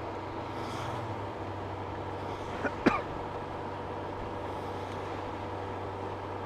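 Honda Gold Wing motorcycle running at low road speed in the rain, a steady engine hum under wind and wet-road noise. Two sharp clicks close together about three seconds in.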